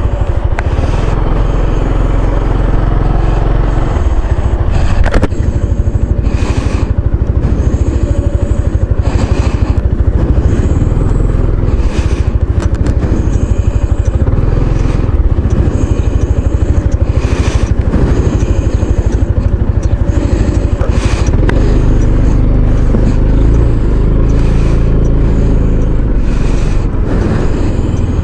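Maxi-scooter riding on the road: the engine and road noise under a heavy, steady low rumble, with brief surges every second or two.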